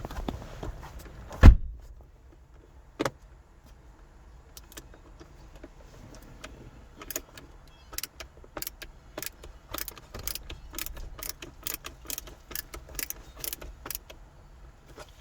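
A heavy thump, then from about halfway in a run of sharp, evenly spaced clicks, roughly two to three a second, from hand work on car interior parts.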